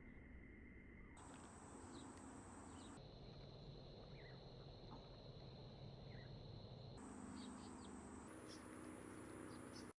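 Faint outdoor ambience of steady insect trilling with brief bird chirps scattered through. The insect tone changes pitch abruptly every few seconds, as if pieced together from separate short clips, and everything cuts off suddenly near the end.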